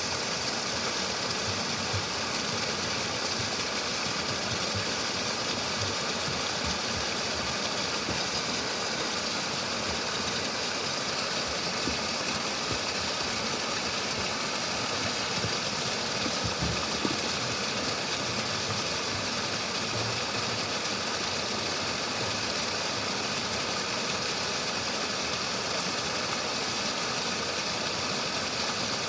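Water flowing steadily, a constant rushing hiss of a stream or small waterfall.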